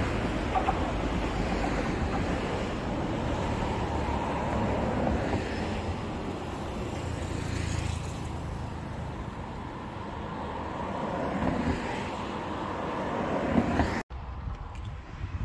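Electric commuter train running away down the track, its rumble slowly fading under wind on the microphone. About fourteen seconds in the sound cuts off abruptly and only quieter wind noise is left.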